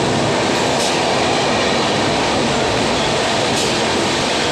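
Express train's passenger coaches running past at high speed: a loud, steady rush.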